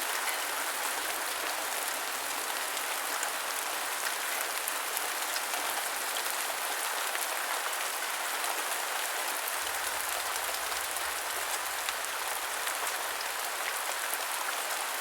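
Steady heavy rain, a dense even hiss with countless fine drop ticks.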